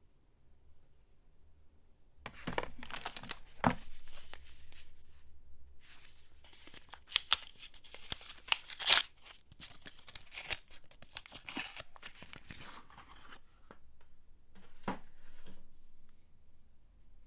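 Soap packaging being torn open and crinkled by hand: a run of crackling, tearing rustles with sharp snaps, starting about two seconds in and loudest in the middle.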